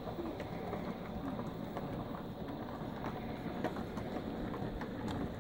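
O gauge model trains running on a garden railway layout: a steady rumble of wheels and motors with many small irregular clicks from the wheels over the track.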